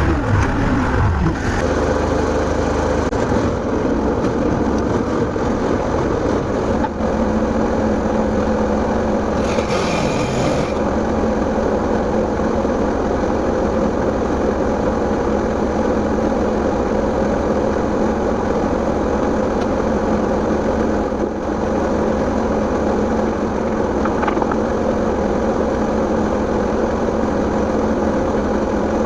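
Engine of a lift machine running steadily while logs are lifted into place, with a brief hiss about ten seconds in.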